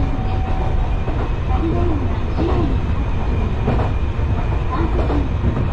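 Enshu Railway electric train running between stations, heard from on board: a steady loud rumble of wheels on rail and running gear. Short rising-and-falling tones come and go through it.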